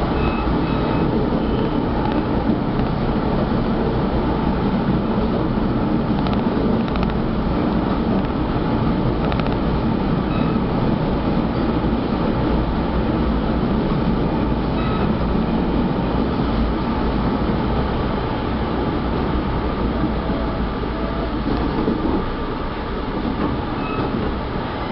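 Steady rumble of a passenger train running on the rails, heard from on board.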